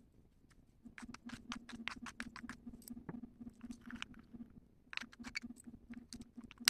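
Quick, irregular light clicks and ticks, a few to several a second, over a faint steady pulsing hum.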